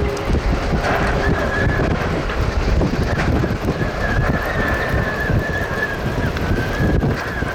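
Strong gusting wind buffeting the microphone in a severe dust storm, a heavy low rumble throughout. A thin, wavering high whistle comes in about a second in and holds on.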